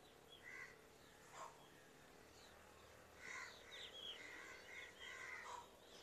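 Near silence with faint bird calls outdoors: scattered short calls, a few early on and a busier run of chirps and calls in the second half.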